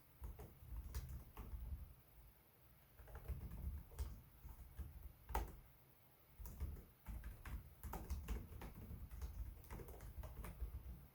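Typing on a Lenovo Legion 5 Pro laptop keyboard: bursts of soft, irregular key clicks, with short pauses about two and six seconds in.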